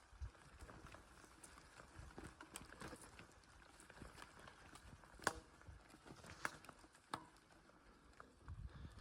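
Small campfire crackling faintly, with scattered irregular snaps and one sharper crack about five seconds in.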